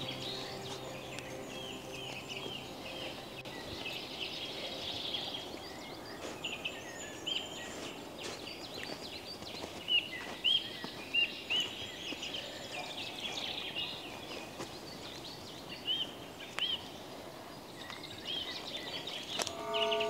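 Small birds chirping and singing in woodland: many short, high, repeated notes over a soft background hiss, with a few louder calls around the middle.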